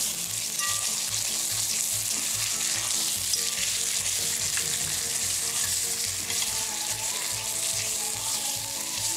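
Quinoa frying in a pot, a steady sizzle, stirred and scraped with a spatula.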